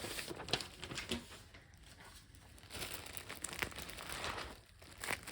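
Packaging crinkling and rustling in bursts as it is handled and unwrapped, with a quieter stretch near the middle.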